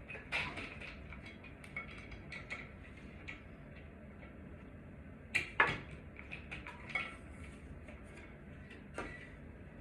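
Light metallic clicks and clinks of small hard parts being handled, scattered throughout, with two sharper knocks close together about five and a half seconds in and one more near the end.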